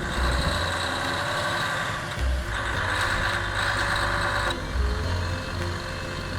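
Truck under way on the road: steady diesel engine and road noise.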